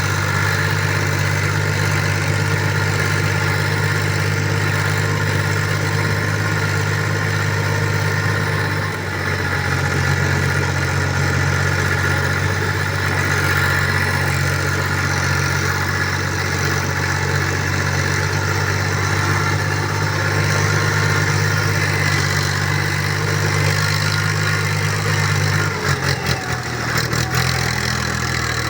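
Tractor engine idling steadily. Its note shifts slightly about nine seconds in and turns uneven near the end.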